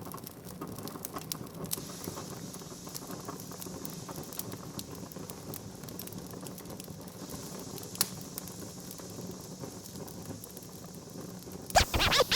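Wood fire crackling, with scattered sharp pops and snaps over a low steady hiss. Music starts near the end.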